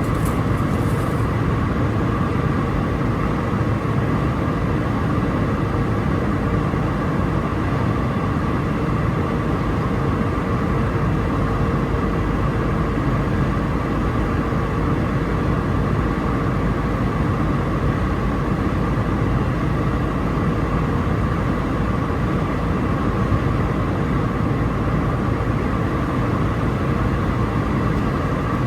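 Cabin noise inside an Airbus A319-131 airliner on approach: a steady roar of airflow and its IAE V2500 jet engines, with a few faint constant whining tones.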